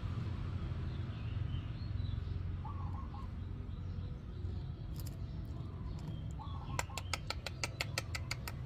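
Faint bird chirps over a steady low rumble. Near the end comes a quick, even run of about a dozen sharp clicks, roughly seven a second.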